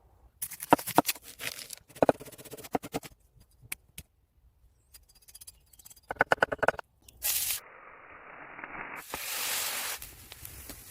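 Outdoor cooking sounds: quick runs of scraping and tapping strokes on food and utensils, then a steady hiss from about seven seconds in, loudest near the end.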